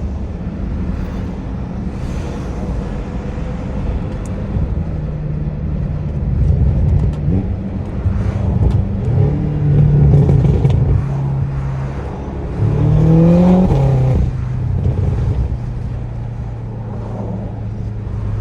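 Catless BMW M5 twin-turbo V8 being driven, its revs climbing in a few short pulls, the strongest about 13 seconds in, then settling back to a steady cruise, with the engine and turbo sound carried through an exhaust that has no catalytic converters.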